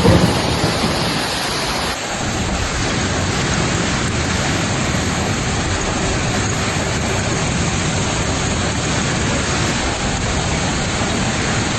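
Heavy rain falling steadily, with a low thunder rumble dying away in the first two seconds.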